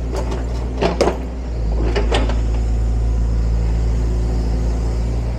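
A heavy demolition machine's diesel engine running steadily, with several crashes of falling bricks and debris in the first two and a half seconds.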